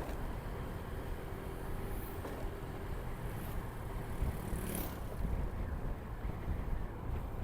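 Motorcycle riding along the road: a steady low engine drone with road and wind noise, and a brief hiss a little under five seconds in.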